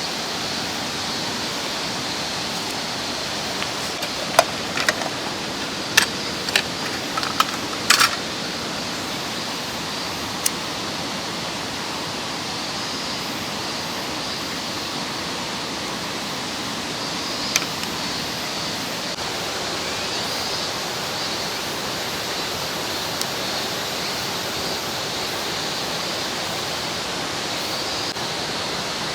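Mountain stream rushing steadily. A handful of sharp clicks and knocks about four to eight seconds in, and one or two more later.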